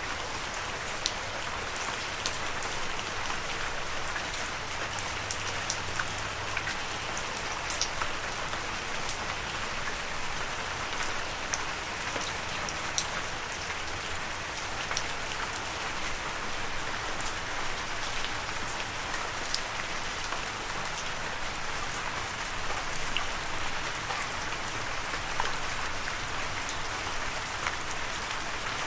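Steady rain falling: an even hiss with many separate sharp drop ticks scattered through it.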